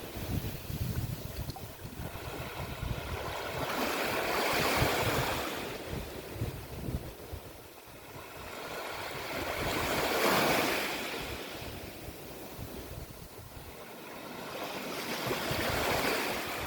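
Sea waves breaking on a beach, three swells of surf building and washing out about five to six seconds apart, with a low rumble of wind on the microphone beneath.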